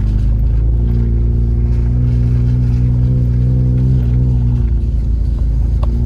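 Vehicle engine running steadily under a slow drive on a rough dirt road, heard from inside the cabin; its pitch rises a little and then drops back about four and a half seconds in. A short click near the end.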